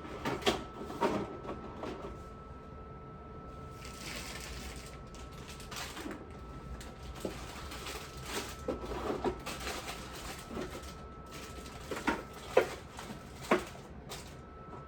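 Scattered light clicks and knocks of things being handled, with a short hiss about four seconds in and three sharper clicks near the end, over a faint steady high hum.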